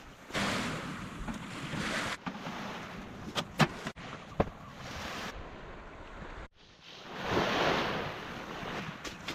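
Waves washing with wind rushing, swelling and fading twice, with a few sharp clicks around the middle and a brief sudden dropout about two thirds through.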